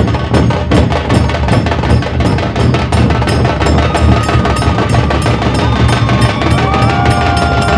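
Dhol tasha ensemble playing: large barrel-shaped dhol drums booming underneath a fast, unbroken run of sharp tasha drum strokes, several a second. Near the end a few held steady tones come in over the drumming.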